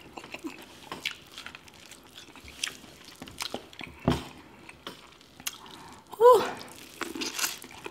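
Close-up wet eating sounds of a seafood boil in butter sauce: chewing and lip smacks as scattered small clicks, with a low thud about four seconds in as seafood is dipped into the sauce bowl, and a brief vocal sound just after six seconds.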